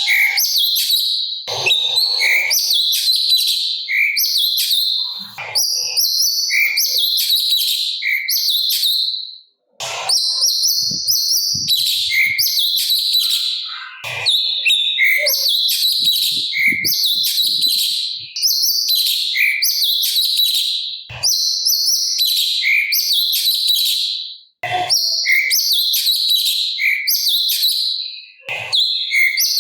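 Cucak cungkok singing loud, continuous strings of quick chirping and whistled phrases, with a short clear note recurring about every second and a half. The song breaks off briefly twice, at about a third and five-sixths of the way through, and a few soft low knocks sound under it.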